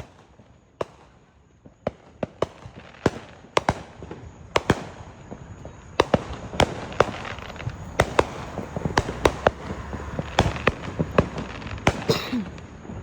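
Consumer fireworks and firecrackers going off: a string of sharp bangs and pops at irregular intervals, sparse at first and coming thicker from about halfway through.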